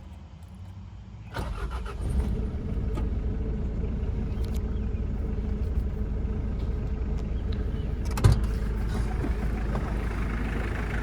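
1986 Mitsubishi Pajero turbo diesel engine being started: a brief crank about a second in, then it catches and settles into a steady idle. A single thump sounds near the end.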